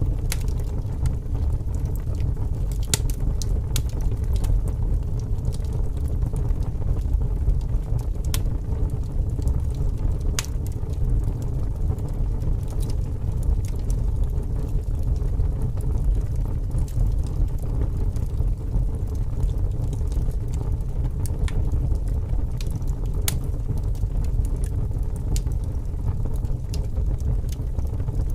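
Wood fire burning, with sparse sharp crackles and pops from the logs over a steady low rumble of strong wind.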